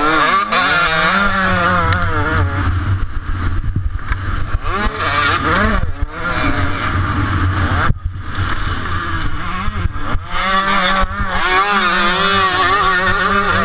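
125cc two-stroke motocross bike engine revving hard and dropping off as the throttle is worked through the gears and corners, with the sound cut sharply for a moment about eight seconds in.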